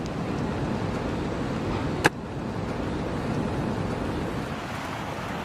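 Steady rushing noise of typhoon wind, with one sharp crack about two seconds in.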